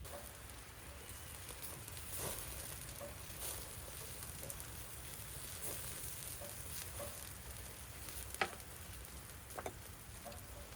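Barbecue skewers sizzling over a firewood fire, a steady hiss broken by scattered sharp pops, the loudest about eight seconds in.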